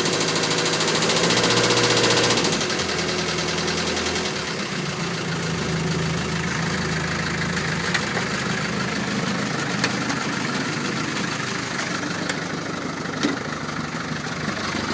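Land Rover Series 3 2.25-litre diesel engine running with a knock, revved for about the first two and a half seconds and then dropping back to idle, with a few sharp pops later on. The owner takes the knocking and popping for injection timing that is out, possibly retarded.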